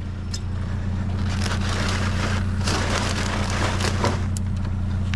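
Rustling and crunching of trash being handled and shifted, with a few sharp clicks, over the steady low hum of an idling vehicle engine.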